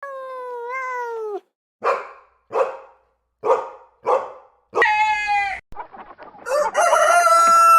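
Chickens calling: a rooster crows, then five short harsh calls follow about a second apart. Another crow with a long held final note comes near the end.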